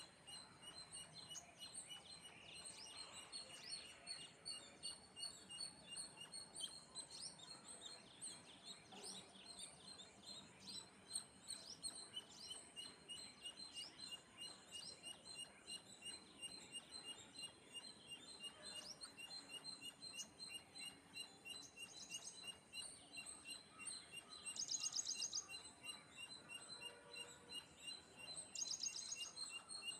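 Faint chirping of sparrows: many short chirps over a steady, high, rapidly pulsing tone, with two louder rapid buzzy trills near the end.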